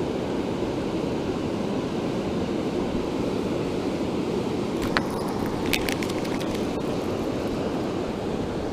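Steady rush of a strong waterfall pouring into a lake, with a few short clicks about five and six seconds in.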